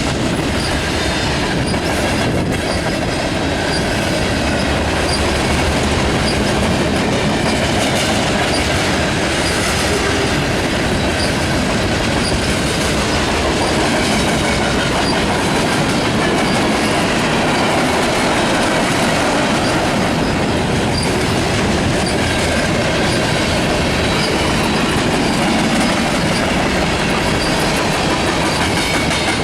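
Canadian National manifest freight train cars rolling steadily past, wheels clattering over the rail joints.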